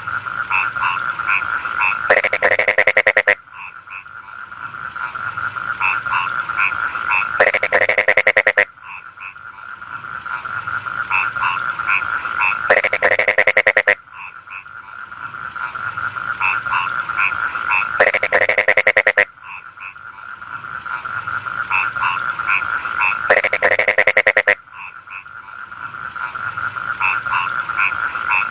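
Rice-field frogs calling in chorus: a steady trill under rows of croaks that build up and break into a loud burst of rapid croaking about every five seconds, five times over. A steady high-pitched buzz runs underneath.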